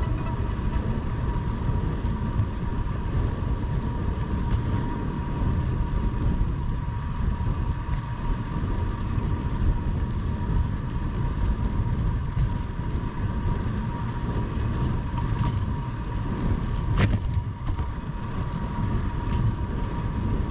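Wind and road noise on the microphone of a camera riding along on a bicycle: a steady low rumble with a faint, even whine, and one sharp click near the end.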